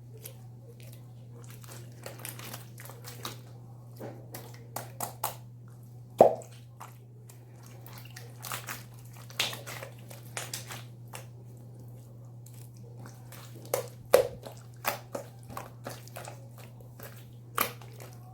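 Slime being squished and worked by hand, making irregular wet clicks and pops, a few of them louder, over a steady low hum.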